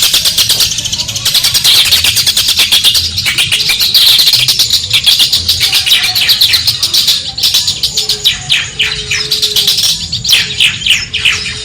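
Long-tailed shrike (cendet) singing a rapid, unbroken chatter of quick high notes, turning to a run of sliding notes near the end.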